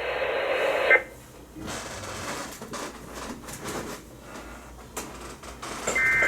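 Weather radio receiver hiss that cuts off sharply about a second in, then low static with faint clicks. Near the end comes the start of a short burst of the high, shrill digital data tones of an Emergency Alert System (SAME) transmission.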